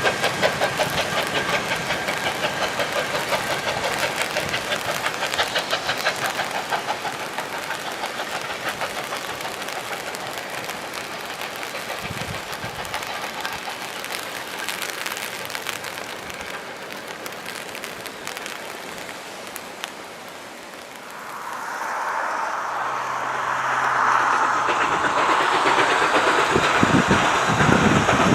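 Steam-hauled train passing on the railway, its wheels clicking rapidly and evenly over the rail joints and slowly fading. About three quarters of the way through, a broad rushing noise swells up and stays loud to the end.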